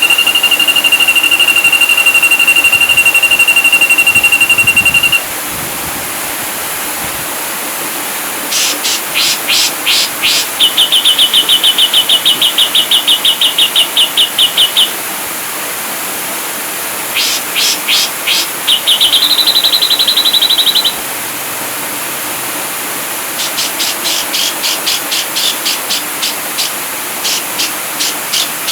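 Ashy drongo song, likely a looped training recording: a long, steady high whistle, then bursts of rapid clicking notes and fast trills, a short rising whistle held about a second, and more quick note series near the end. A steady hiss lies underneath.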